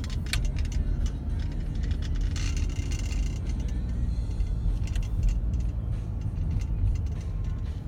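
Car driving, heard from inside: a steady low rumble of engine and road noise, with light scattered rattles and clicks.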